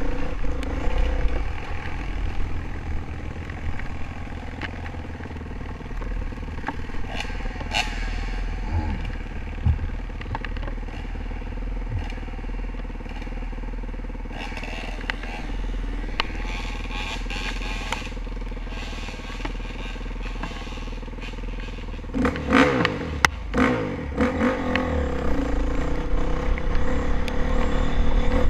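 Dirt bike engine, a Honda CRF450R's single-cylinder four-stroke, running on a trail ride, with clattering and scraping from the bike and terrain. About 22 seconds in the engine revs up and down sharply and gets louder.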